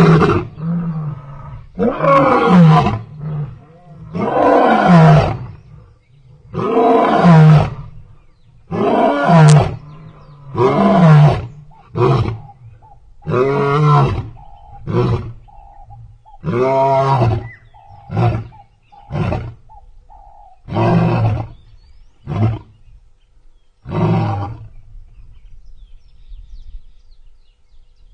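Lion roaring: a bout of about six long, deep roars, followed by a run of shorter grunting roars that come a second or two apart and stop near the end.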